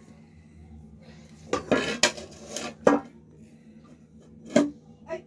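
Eating utensil clinking and scraping against a dish: a short run of scrapes about a second and a half in, then single sharp clinks near three seconds, near four and a half, and a small one at the end.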